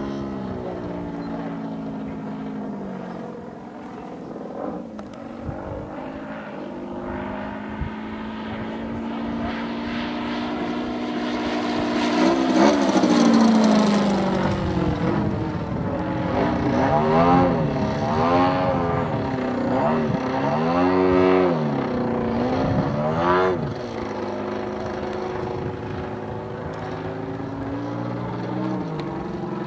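Giant-scale RC airplane's engine and propeller in flight, droning steadily at first. About twelve seconds in it makes a loud pass with its pitch falling, then gives a run of quick rises and falls in pitch as it passes back and forth and manoeuvres.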